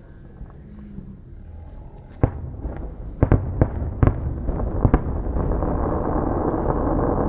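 Fireworks going off: after a quiet start, about six sharp bangs over three seconds, followed by a dense, continuous rushing noise that builds and stays loud.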